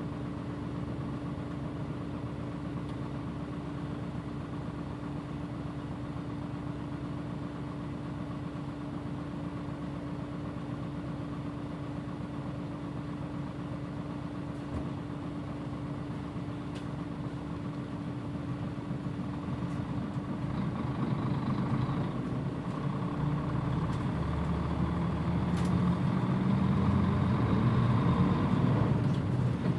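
Mitsubishi Fuso PJ-MP35JM bus's diesel engine idling steadily with a constant hum, then about two-thirds of the way through the engine speeds up and grows louder as the bus pulls away, with a brief drop near the end.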